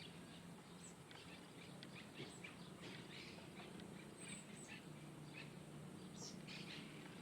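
Faint chirps and short calls from small birds, many brief notes scattered throughout, over a low steady hum.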